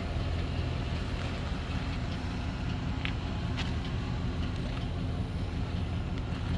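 A vehicle engine running steadily at idle, a low, even hum, with a few faint ticks about three seconds in.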